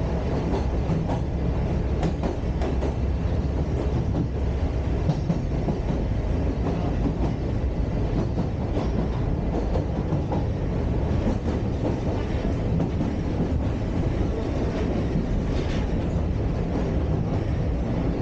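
Sagano Romantic Train sightseeing carriage running along the track, heard from inside the car: a steady rumble of wheels on the rails with occasional faint clicks.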